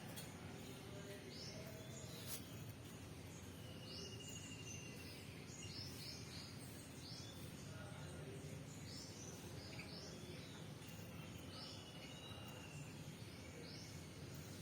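Faint outdoor ambience with birds chirping: short high calls recurring every second or so, with a brief trill twice.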